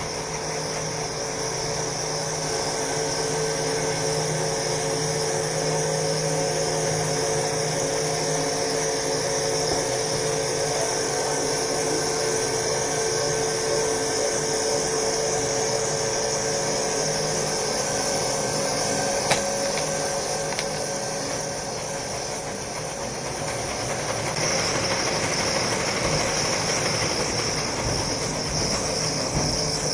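Toilet paper machine running steadily: a continuous mechanical hum and hiss with a few held tones. The sound dips and changes about three-quarters of the way through, then runs on.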